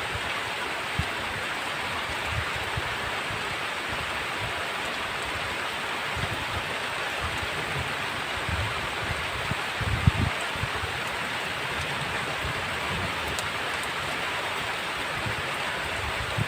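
Heavy rain falling steadily in an even wash, with short low thumps now and then, the strongest about ten seconds in.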